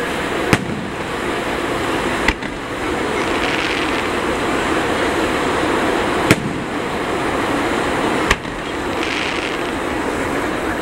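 Aerial firework shells bursting: four sharp bangs in two pairs, each pair about two seconds apart, over a steady background hiss.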